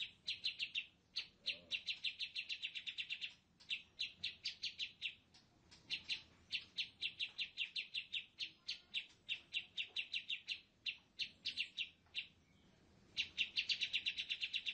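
A bird chirping in rapid runs of short, high notes, several a second, each run lasting a second or two with short pauses between.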